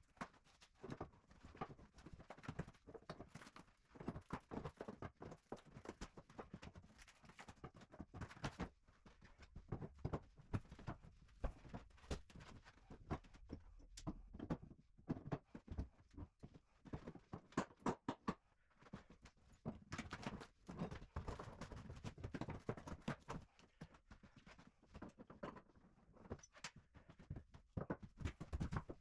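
Irregular knocking and clattering of hand demolition work on a floor, with sharp knocks coming at uneven intervals throughout: fibreboard sheets being pried and torn up off the wooden floorboards.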